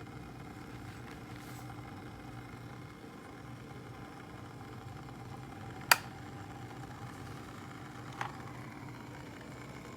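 Glass electric kettle heating water: a steady low hum, with a sharp click about six seconds in and a fainter click about two seconds later.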